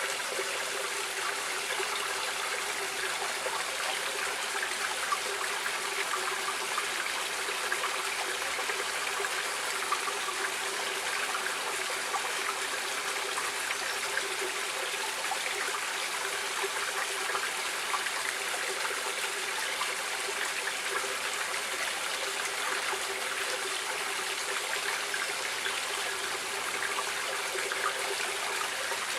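Stream water running and trickling steadily, a constant rushing wash with no change in level.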